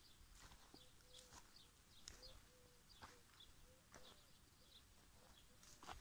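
Faint outdoor ambience: scattered short bird chirps, with a few soft crackles of dry grass underfoot.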